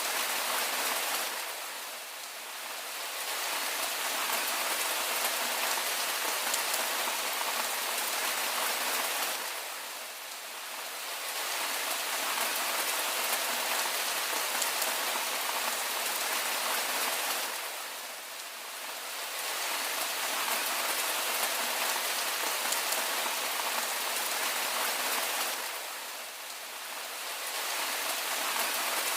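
Steady rain falling, an even hiss that softens briefly about every eight seconds.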